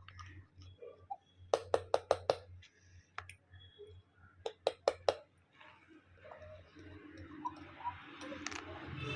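Sharp clicks in two quick runs of four or five, about a second and a half in and again near five seconds, followed by a steady hiss that swells toward the end.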